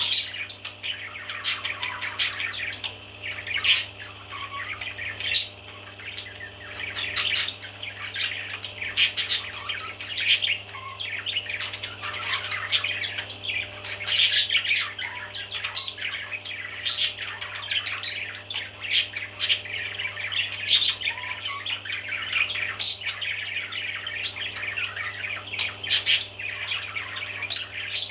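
A group of baby parrots chirping and squawking constantly, many sharp calls overlapping, over a steady low hum.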